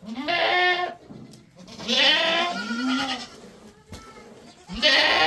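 Sheep or goat bleating: three long, wavering calls, about a second each, the last starting near the end.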